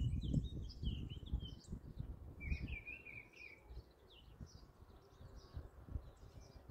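Small birds chirping: many short, high calls, some in quick runs, over a low, uneven rumble that is heaviest in the first few seconds.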